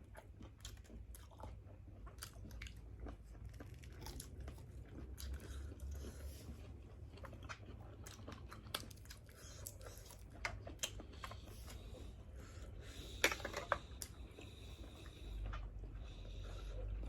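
People chewing and biting into grilled seafood, with moist chewing, small crunches and scattered clicks. A louder burst of clicks comes about thirteen seconds in.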